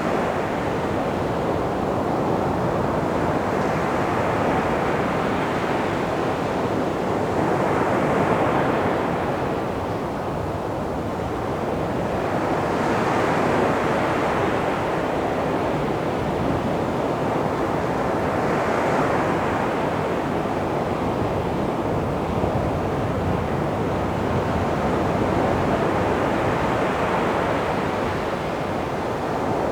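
Calm sea waves breaking and washing onto a beach: a continuous surf hiss that swells every five or six seconds as each wave comes in.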